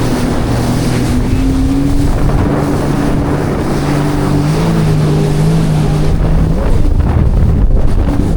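Sea-Doo GTI 170 jet ski engine running at speed, a steady drone that rises a little in pitch midway, with wind rushing over the microphone. About six and a half seconds in the engine note fades under louder wind and water noise.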